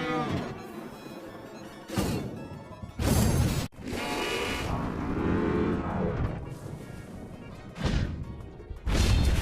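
Cartoon soundtrack of music with several sudden loud crashes and bangs, one about two seconds in, a longer one around three seconds, and two more near the end.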